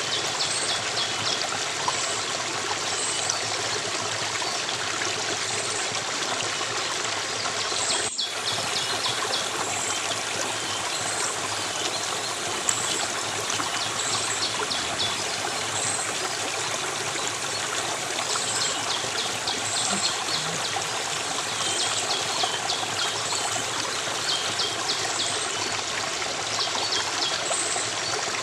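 Steady flowing stream water, with repeated high-pitched chirps and trills over it. There is a momentary break in the sound about eight seconds in.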